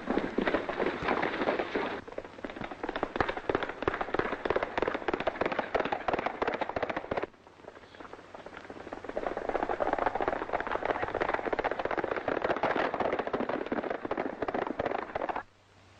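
Hooves of several galloping horses, a fast continuous clatter that eases off for a moment about seven seconds in, then comes back and cuts off suddenly just before the end.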